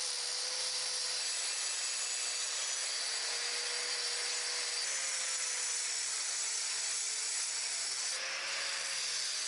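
Bosch GWS9-115P 115 mm angle grinder running steadily against stone: a constant grinding hiss with a motor whine whose pitch wavers slightly.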